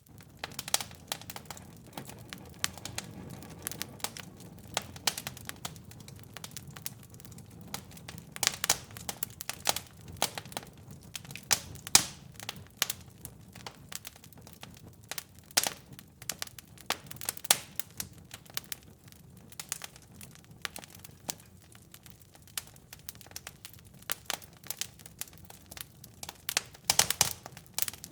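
Fire crackling in a fireplace: a continual, irregular run of sharp pops and snaps over a soft low rumble of flames, with louder clusters of pops now and then.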